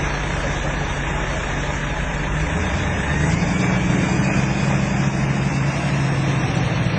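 Motor vehicle engine running steadily, picking up speed and getting a little louder about three seconds in, over a steady rush of noise.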